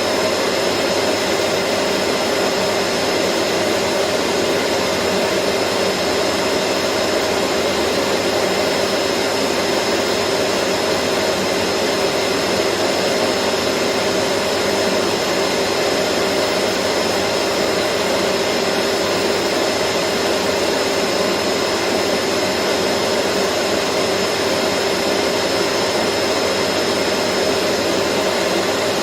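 Vacuum cleaner running steadily: a constant rush of air with a steady hum and a thin high whine, unchanging throughout.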